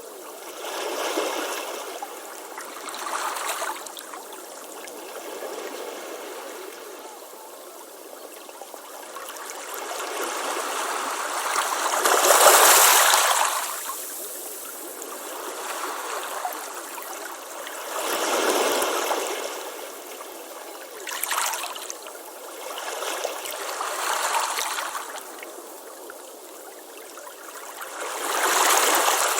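Ocean waves breaking and washing up a beach, coming in irregular swells every few seconds, the loudest about halfway through.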